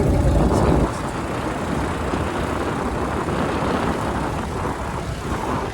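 Motorcycle taxi riding along: engine running under a steady rushing noise, with a heavier low rumble for about the first second that then eases.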